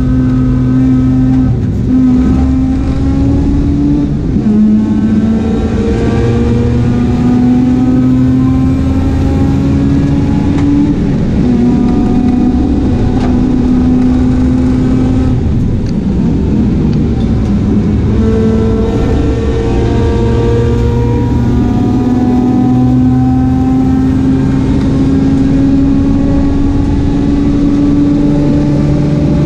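Mazda RX8's rotary engine pulling hard on a race lap. Its pitch climbs steadily through each gear and drops back at each change, several times over.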